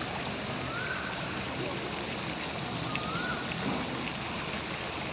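Steady rush of running water, with a few faint short whistles over it.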